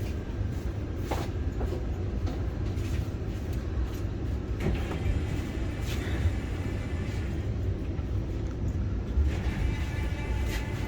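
Steady low rumble of the Vande Bharat Express electric trainset, with a few short clicks over it.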